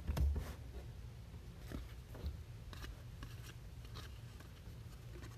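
Trading cards being handled and flipped through: soft scattered rustles and clicks, with a low thump just after the start.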